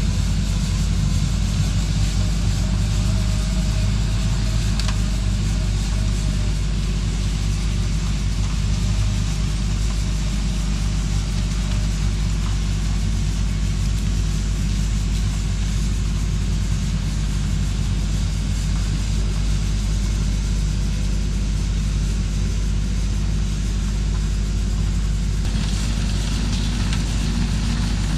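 Engine of a truck-mounted snowblower rig running steadily with a deep, even drone. A brighter hiss joins in near the end.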